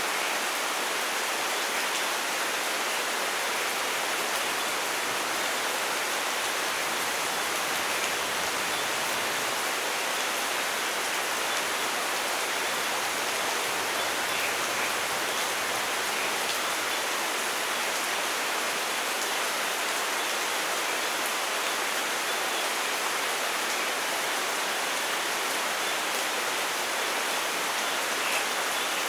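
Steady rainfall, an even hiss without breaks and with no thunder.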